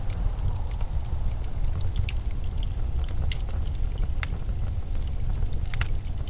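Winter storm wind making a steady deep rumble, with scattered small sharp crackles and ticks over it, a few close together near the end.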